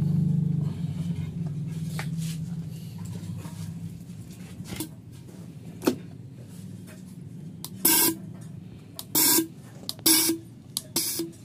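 Fuel injector test bench: its motor's steady low hum dies away over the first few seconds. Near the end come four short, loud hissing bursts about a second apart.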